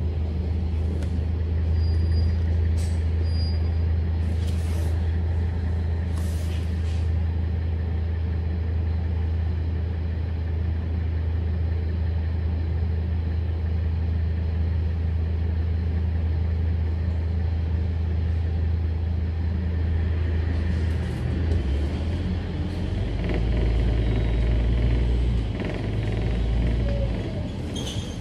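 Scania K310UD double-decker bus's diesel engine running with a steady deep hum, which drops in pitch and swells louder about three quarters of the way through. A few short hisses of air from the brakes come in the first several seconds.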